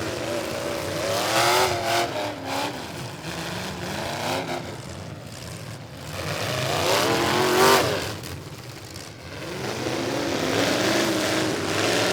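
Demolition derby farm-truck engines revving hard in surges, pitch rising and falling as the trucks accelerate around the arena, with the strongest rising revs about seven seconds in and again near the end.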